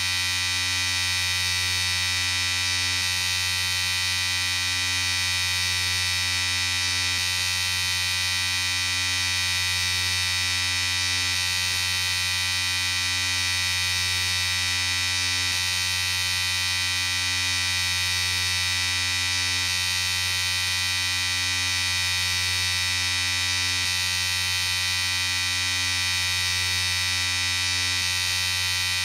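Electric shaver running continuously, a steady buzzing hum that does not change.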